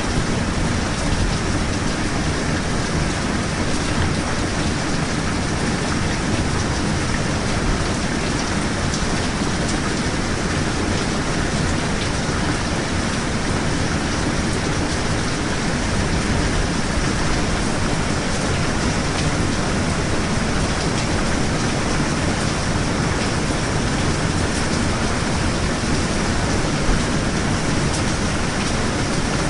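Steady heavy rain falling, an even continuous hiss with a low rumble underneath and faint scattered drop ticks.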